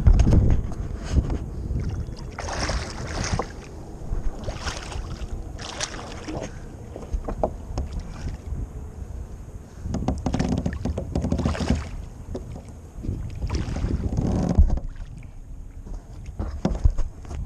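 Irregular splashing and knocking aboard a fishing kayak in bursts of a second or so, over a low rumble of wind on the microphone.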